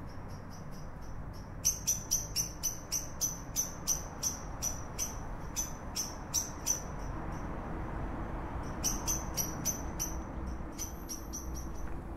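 A small bird's sharp, high call repeated about three times a second in runs, pausing for a couple of seconds in the middle, over a steady low rumble.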